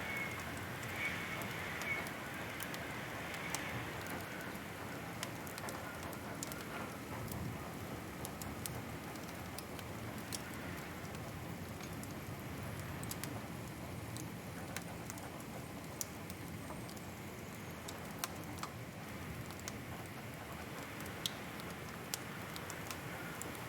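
A wood fire crackling, over a steady hiss and with scattered sharp pops at irregular intervals.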